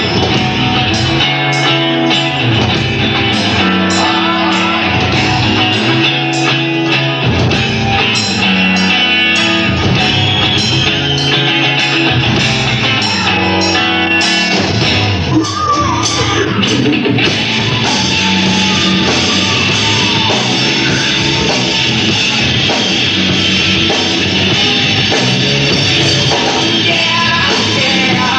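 Rock band playing live with electric guitars and sung, partly shouted vocals; the arrangement changes about halfway through.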